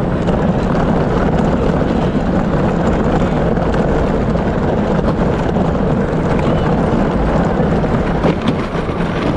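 Power Wheels ride-on car driving, heard from on board: a steady rumble of its motors and wheels with no break.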